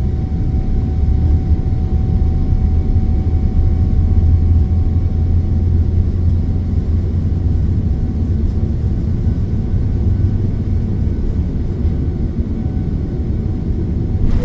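Cabin noise inside a Boeing 787-9 during take-off: its Rolls-Royce Trent 1000 engines run at high thrust under a loud, steady low rumble. A thin steady whine sits above it and fades out about halfway through.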